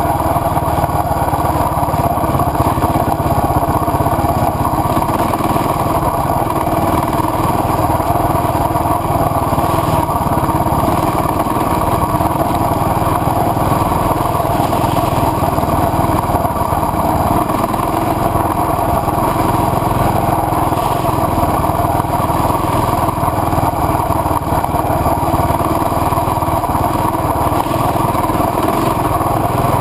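KTM adventure motorcycle's engine running steadily while the bike is ridden at a low, even speed.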